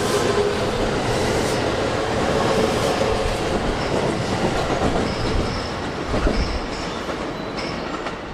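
Commuter electric train pulling out and running past along the platform, its wheels rolling on the rails. Short high-pitched wheel squeals come in during the second half, and the noise eases off as the last car clears.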